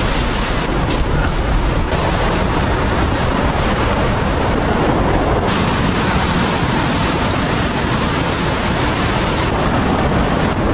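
Loud, steady rush of a fast-flowing river running high.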